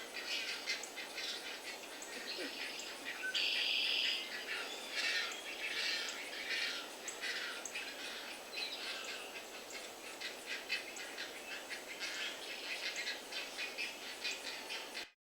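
Birds chirping and calling in a rapid run of short, overlapping notes, with a louder buzzy trill about three seconds in. The sound cuts off suddenly near the end.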